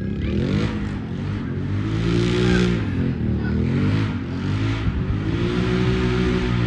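Engine of a 1000R fitted with a new HMF aftermarket exhaust and tune, revving up and down under throttle, its pitch rising and falling several times before settling into a steadier run near the end.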